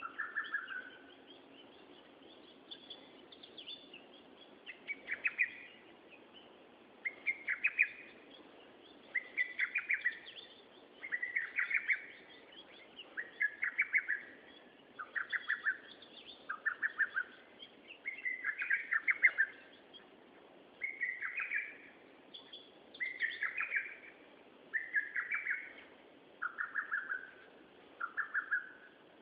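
A songbird singing, repeating a short phrase of rapid, quick-fire notes about every two seconds.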